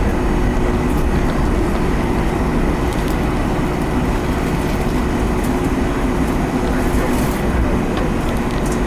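Steady cabin noise inside a Boeing 757-200 taxiing after landing: a low rumble with a steady engine hum, and a few faint ticks.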